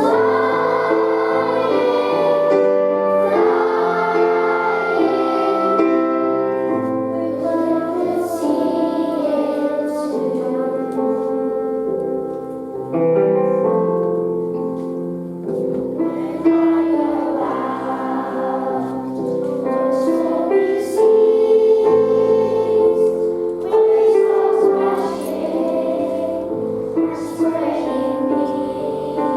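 A group of primary-school children singing a song together over an instrumental backing.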